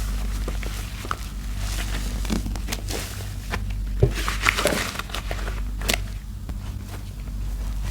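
Soap-soaked sponge being squeezed and worked in thick laundry-soap paste: wet squelching with irregular crackles and clicks, the sharpest a few pops about four seconds in.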